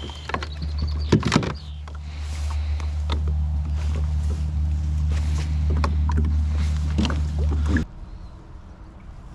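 Old Town 106 PDL kayak's pedal drive running, a steady low hum that stops suddenly near the end. A few sharp knocks about a second in.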